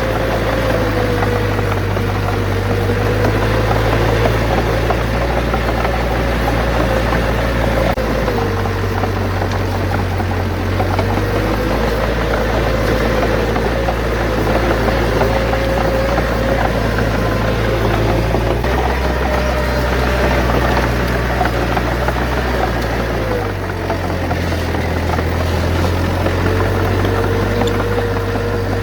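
Bulldozer's diesel engine running steadily under work, with a higher whine wavering above it. The engine note steps to a new pitch a few times.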